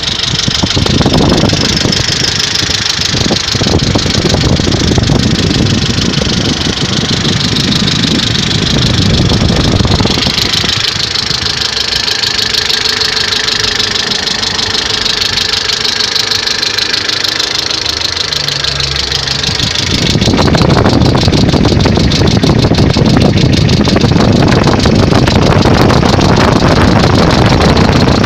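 Mercedes-Benz W202's M111 four-cylinder petrol engine running while warming up, with a rapid knocking from the engine. The knock comes at times as the engine warms and appeared after an oil change; the owner does not know its cause and wonders whether the oil is to blame. The sound grows louder and fuller about twenty seconds in.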